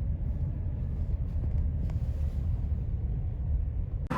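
Steady low rumble of a car's road and engine noise heard from inside the cabin while driving. It cuts off abruptly just before the end.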